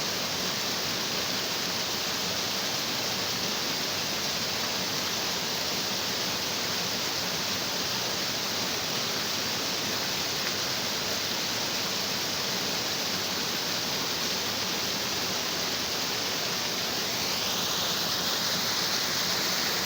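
A stream of water rushing and splashing over rocks, a steady hiss-like rush that grows a little louder near the end.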